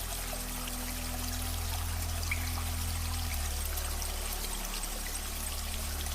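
Running water splashing and trickling steadily, over a low steady hum that shifts in pitch about three seconds in.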